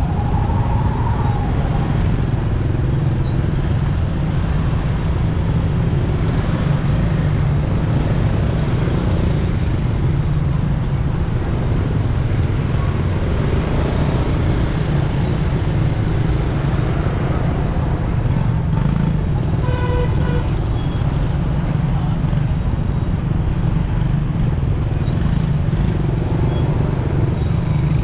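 Road traffic heard from a moving motorcycle: a steady low rumble of engine and road noise, with a short horn toot about twenty seconds in.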